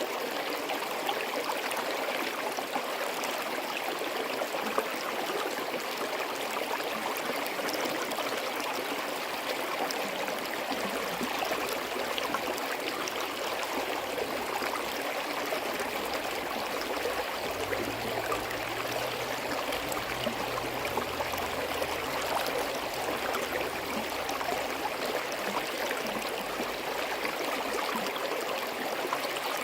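Forest stream flowing over rocks, a steady babbling and gurgling rush of water with no let-up.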